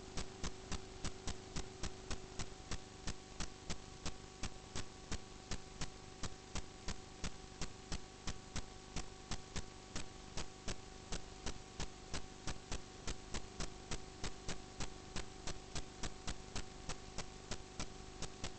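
Steady mechanical ticking, about three ticks a second, over a low steady hum.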